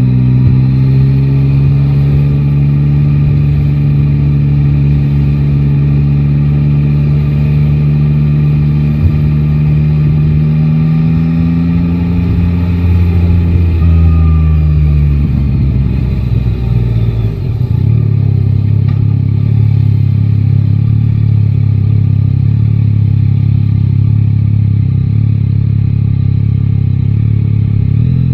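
A Yamaha Tracer 9 GT's 890 cc three-cylinder engine running under way, with wind rumble on the microphone. About 15 seconds in it slows down, its pitch falling. It then runs on at a steady, lower, even pitch, without the wind noise.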